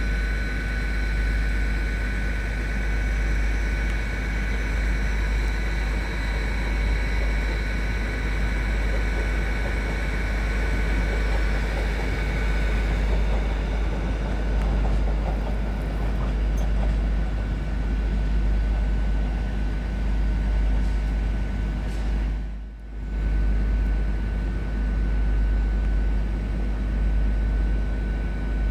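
Train at a station: a steady, loud low rumble with steady high-pitched whine tones over it. Part of the whine drops away about halfway through, and the sound briefly dips about three quarters of the way through.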